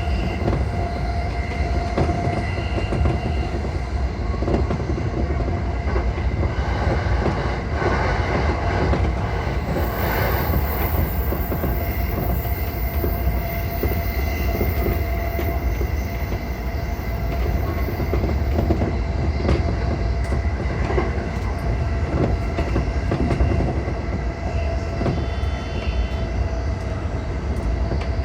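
Running noise of a JR East E235-1000 series electric commuter train at speed, heard from inside the front car: a steady low rumble of wheels on rail with faint high steady tones over it.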